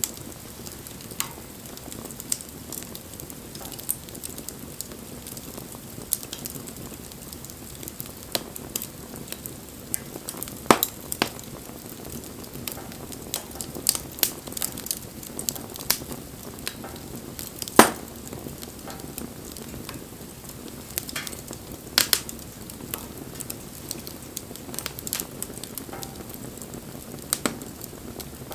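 Wood fire burning: a steady hiss with frequent irregular crackles and sharp pops, a few of them much louder than the rest.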